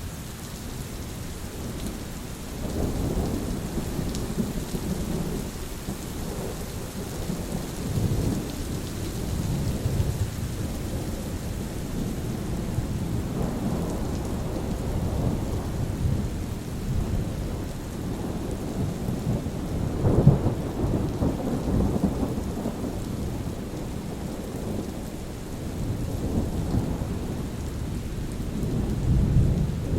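Steady rain with thunder rumbling again and again through it, in low rolling swells; the loudest clap comes about two-thirds of the way through, and another builds near the end.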